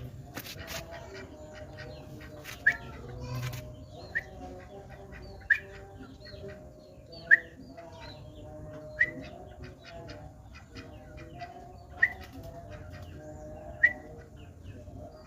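Yellow-vented bulbul (trucukan) giving short, sharp single chirps, seven in all, spaced about one and a half to three seconds apart.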